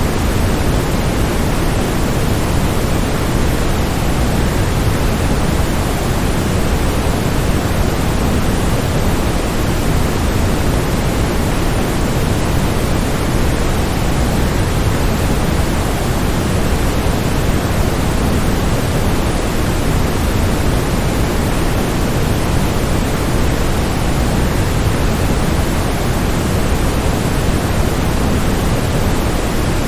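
Waterfall rushing, a steady, even roar of falling water with most of its weight low down and no change over time.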